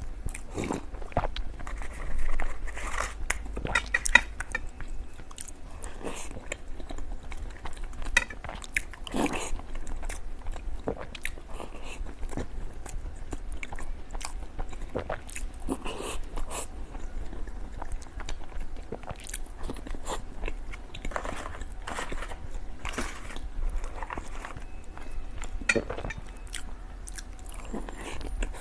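Close-miked eating of desserts such as fruit cake: biting and chewing, with irregular crunchy clicks and crackles all through, in clusters every few seconds.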